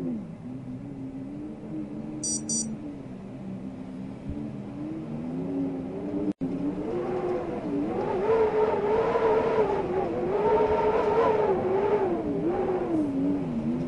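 Wind howling, a wavering whistle of several tones that slides up and down in pitch. About halfway through it rises in pitch and grows louder, with a split-second dropout just before.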